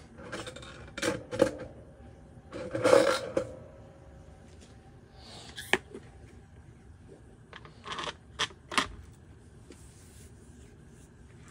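Small string-trimmer parts being handled and fitted by hand: scattered clicks, taps and scrapes, several sharp ones in quick pairs.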